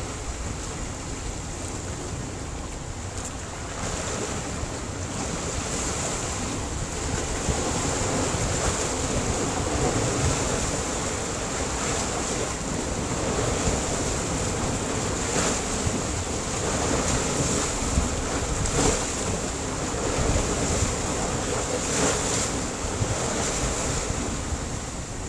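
Sea surf breaking on a rocky shore: a continuous wash of waves that swells and eases, with a few sharper surges in the second half.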